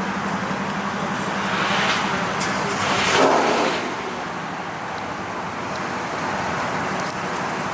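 Cars running and moving around, with a steady engine hum under traffic noise. One vehicle passes louder about three seconds in.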